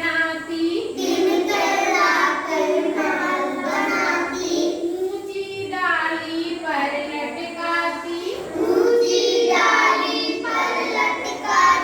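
A child singing a Hindi children's poem in a sing-song melody, phrase after phrase with held notes.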